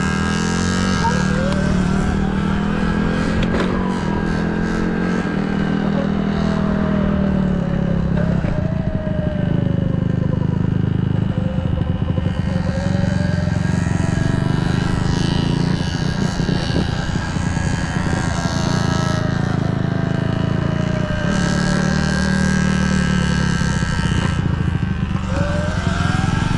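Dirt bikes being ridden, their pitch rising and falling over and over as they rev up and ease off.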